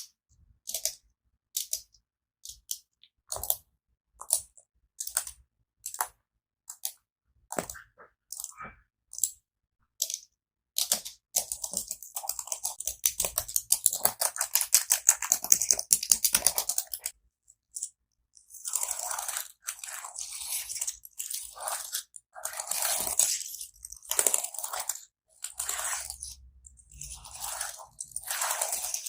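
Close-miked ASMR tapping and scratching on a keyboard: scattered single clicks at first, then a fast run of rapid clicking, then longer crunchy rubbing sounds near the end.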